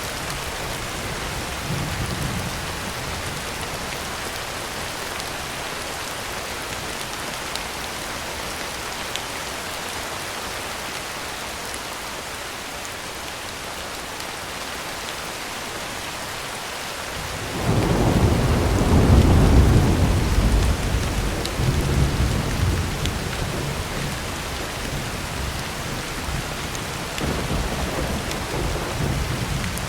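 Heavy rain beating steadily on a tin roof. A deep roll of thunder breaks in suddenly about two-thirds of the way through and fades over several seconds, and a fainter rumble follows near the end.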